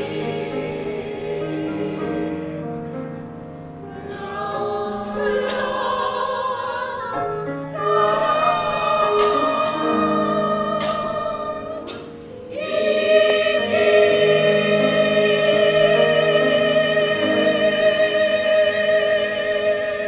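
A choir singing in harmony, voices with vibrato. About twelve seconds in it swells into a loud, long-held final chord, released right at the end.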